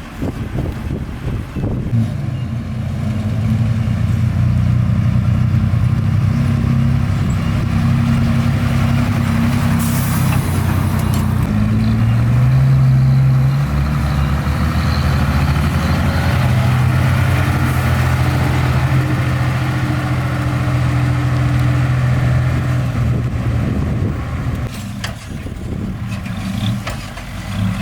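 Heavy construction-vehicle diesel engine running under load, its pitch rising and falling in steps, with a brief hiss of air about ten seconds in.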